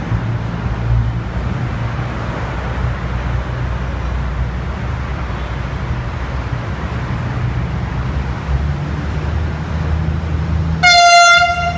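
INKA diesel multiple unit approaching with a steady low engine rumble, then sounding its horn in one short blast near the end.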